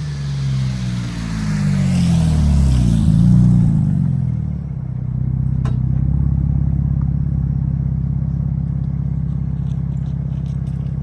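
Exhaust note of a BMW 525i's straight-six through a Jones turbine muffler and resonator on a slow drive-by. The pitch swings up and down for the first four seconds or so, then the car settles into a steady low rumble, with a single sharp click about six seconds in.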